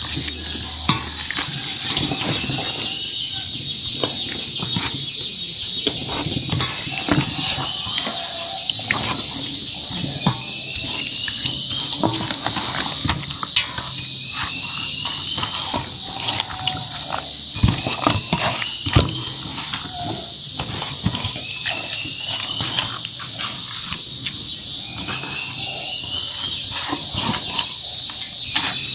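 A steady, high-pitched drone of insects, with a short rising chirp repeating every two to three seconds, over scattered wet clicks and knocks from hands mixing raw chicken in its spice marinade.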